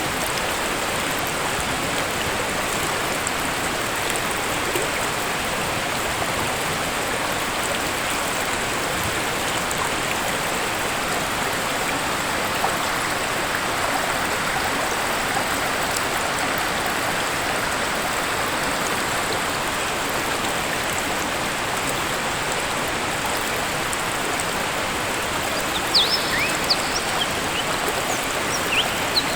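Waterfall: a steady, even rush of falling water. Near the end come a few short, high bird chirps.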